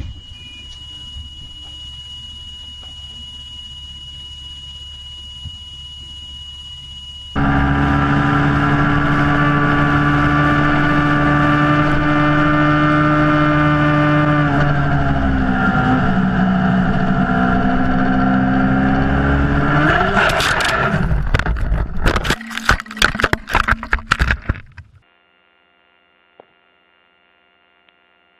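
Loud, steady pitched vehicle noise that starts abruptly, sags in pitch midway and climbs again, followed by a quick run of knocks and bangs before it cuts off.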